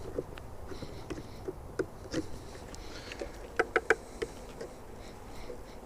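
Hive tool scraping and knocking on the wooden tops of beehive frames in short, irregular strokes, cleaning off wax before the queen excluder goes on, with a quick run of three sharp clicks a little past halfway.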